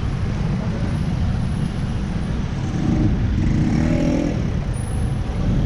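Steady low rumble of riding noise picked up by a helmet-mounted action camera: wind on the microphone mixed with road and traffic sound, with a faint pitched hum around the middle.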